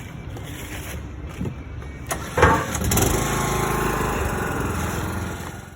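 A vehicle engine running steadily, louder from about three seconds in, with a short loud sound about two and a half seconds in.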